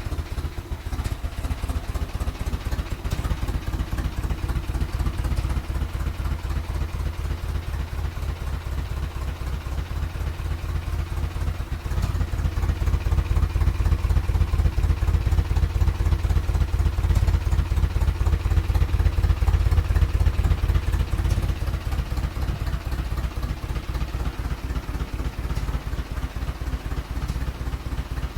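Freshly rebuilt GAZ-MM four-cylinder side-valve (flathead) engine running with an even, pulsing exhaust beat. It runs louder from about twelve seconds in until a little after twenty, then settles back.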